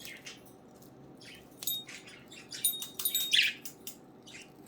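Pet budgerigars chirping and chattering in short, high calls, the loudest about three seconds in.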